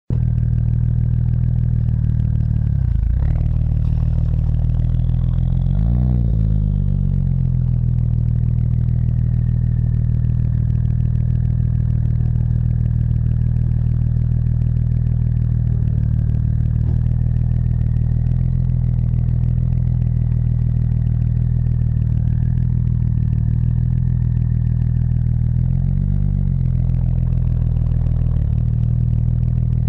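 Audi S4 with an APR Stage 2+ tune and dual exhaust idling steadily through its exhaust, blipped briefly a few times: about three seconds in, again about six seconds in, and once near the end.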